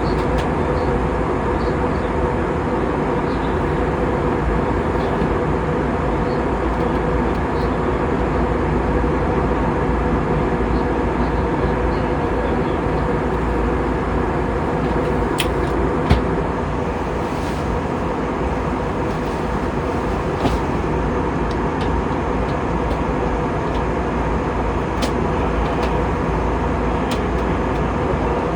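Steady engine and airflow noise inside a jet airliner's cabin, with faint steady hums running under it. A sharp click comes about sixteen seconds in, and a softer one about four seconds later.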